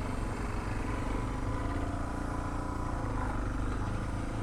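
Suzuki DR650 single-cylinder motorcycle engine running at low revs while the bike rolls slowly, its pitch drifting gently up and down.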